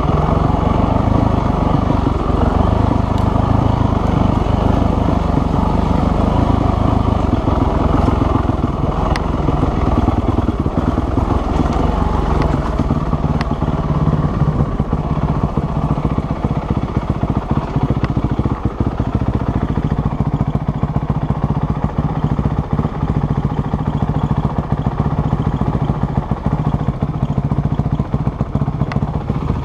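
Dirt bike engine running steadily while riding, its low note holding fairly even.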